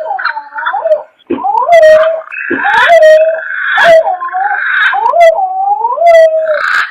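Lure-call recording of a punai jawa green pigeon: repeated phrases of swooping whistled notes that rise and fall, mixed with sharp clicks and a harsh rasping sound, about three phrases with short pauses between.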